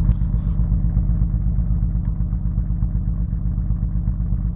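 1984 Nissan Maxima engine idling steadily through its new exhaust, a low, even pulsing note, quiet for an exhaust.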